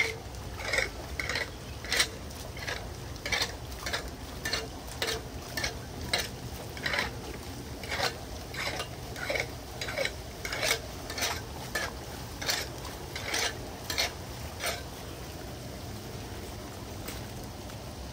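Repeated scraping and clinking strokes, roughly one to two a second, as debris is cleared from a clogged street storm drain; the strokes stop near the end, leaving a steady background wash.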